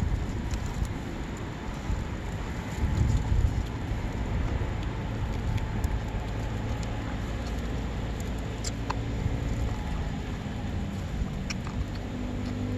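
Wind rumbling and buffeting the microphone over an outdoor campfire, with faint scattered crackles. About two-thirds of the way through, a steady low engine hum comes in and grows louder.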